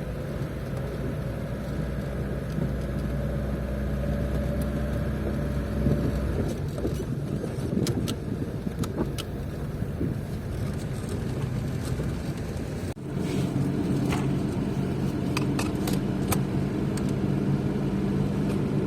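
Car driving along, its engine running steadily with road noise and occasional knocks and rattles. The engine note changes abruptly about two-thirds of the way through.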